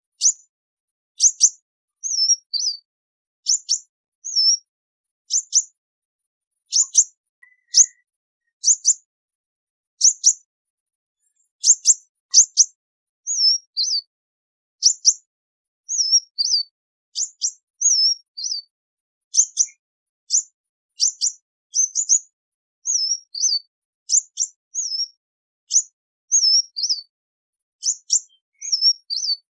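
Sunbird calls: short, high chirps repeating about once or twice a second with brief silences between, some sharp downward strokes and some small wavering notes, used as a flock call.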